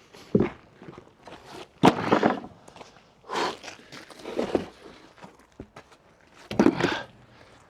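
A few separate knocks and scuffs a second or two apart, the loudest about two seconds in and near the end: small ramps being handled and set down on the ground.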